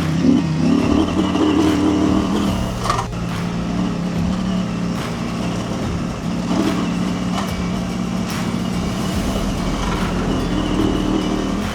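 Husqvarna Norden 901's parallel-twin engine running under way on a dirt track, its pitch shifting with the throttle, with one sharp knock about three seconds in.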